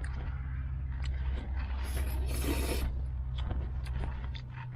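Scraping and small clicks of things being handled, with a louder hissing scrape about two seconds in, over a steady low hum.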